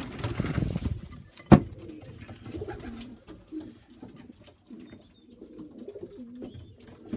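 Racing pigeons cooing in the loft, low and wavering on and off. There is a rustle at the start and one sharp knock about a second and a half in.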